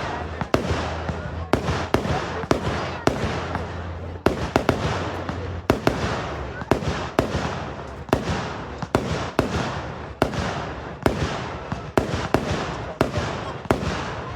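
Fireworks going off in a rapid barrage: sharp aerial shell bursts about two a second, with crackling between them.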